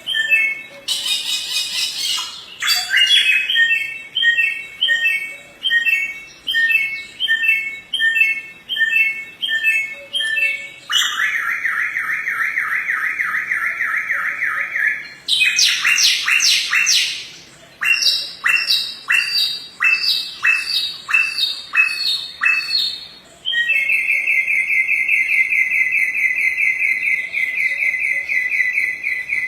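Samyong songbird singing a varied song: runs of repeated chirping notes about twice a second, a few harsh rasping strokes, and long rapid trills, the longest filling the last six seconds.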